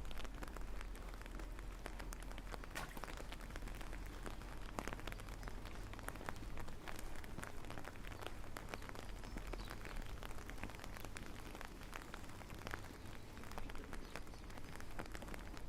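Steady rain falling, with many small raindrop ticks hitting nearby surfaces.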